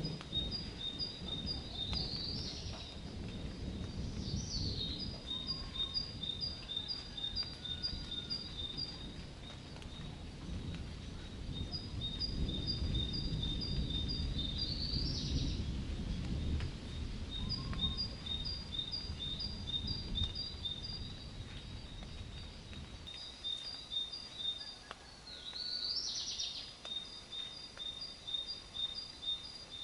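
A songbird sings repeated fast trills of short high notes, each burst lasting a few seconds and several ending in a quick rising sweep. Under it runs a low storm rumble that swells and fades, strongest about halfway through, then dies down near the end.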